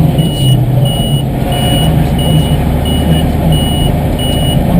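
Tractor's diesel engine running, with a short high-pitched electronic beep repeating evenly about three times every two seconds.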